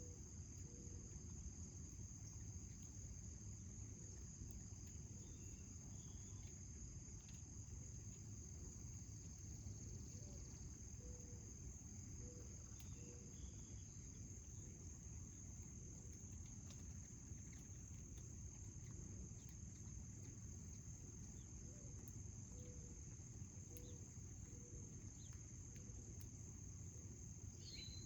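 Steady high-pitched trilling of insects in a garden, running unbroken over a low background rumble, with a brief chirp near the end.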